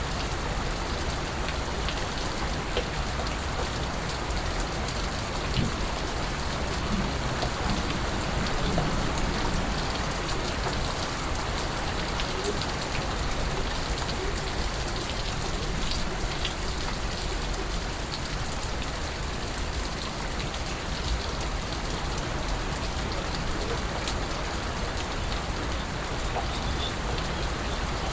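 Steady rain falling and pattering on surfaces, with scattered individual drips standing out.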